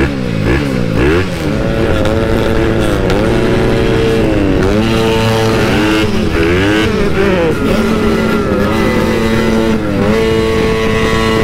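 Several motorcycle engines revved with open exhausts (blayer), their pitch rising and falling again and again over engines running steadily.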